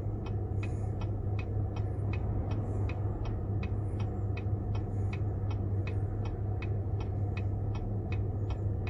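A car's turn-signal indicator clicking at an even pace, about two to three clicks a second, over the steady hum of the idling engine inside the cabin.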